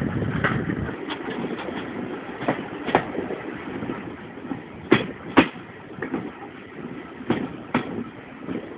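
Railway carriage running along jointed track: a steady rumble with pairs of sharp clicks every couple of seconds as the wheels cross rail joints, the loudest pair about halfway through.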